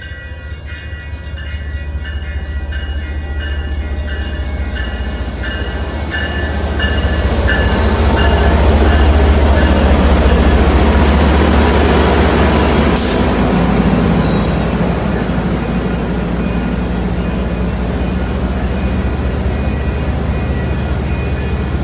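MBTA commuter rail train led by a diesel locomotive, its engine drone growing louder as it comes close and passes. The coaches then roll by with wheels squealing on the rails, and there is a sharp clank about 13 seconds in.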